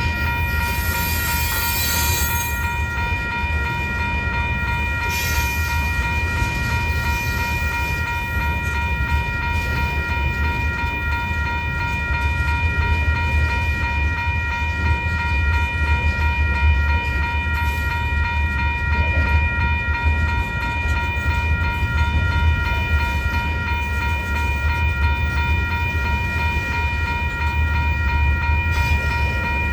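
Freight train rolling past: a heavy, continuous rumble of cars on the rails, with a steady high-pitched ringing tone over it.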